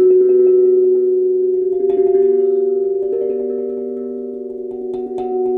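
Steel tank drum (tongue drum) with nine notes tuned to a B scale, several tongues struck in turn and left to ring, the notes overlapping and slowly fading.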